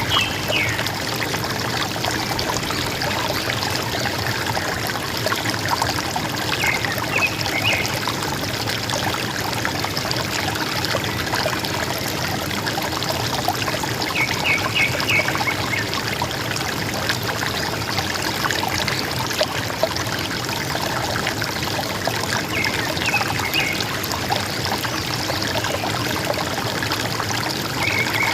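River water running and gurgling steadily, with a forest bird's short call of a few quick high notes repeating about every seven or eight seconds.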